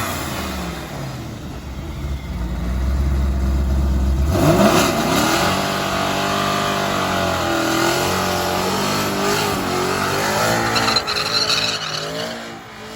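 Sports car engine with a deep rumble, then revving and accelerating hard about four seconds in, its note rising and shifting through the gears before fading near the end.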